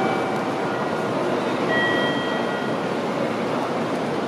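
Steady rushing rumble of an N700 Shinkansen bullet train moving along the station platform, with faint high tones about two seconds in.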